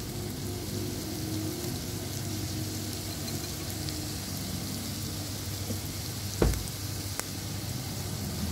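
Chopped onion, chillies and curry leaves sizzling steadily in butter in the inner pot of an electric pressure cooker, the aromatics being fried until fragrant. A single knock comes a little after the middle.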